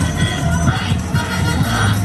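Electronic dance music with a heavy bass and a steady beat, played loud through a car sound system.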